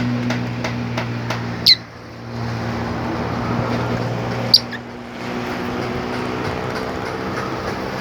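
A pet bird gives two short, sharp calls, each dropping in pitch, about three seconds apart, over a steady low hum.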